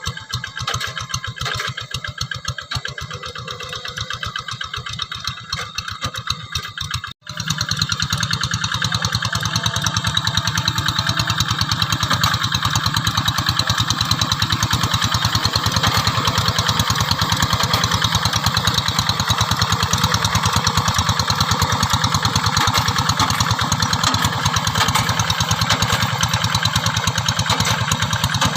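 Single-cylinder diesel engine of a Quick G3000 two-wheel hand tractor running steadily with a fast, even firing rhythm while plowing. About seven seconds in the sound cuts out for an instant and comes back louder and closer.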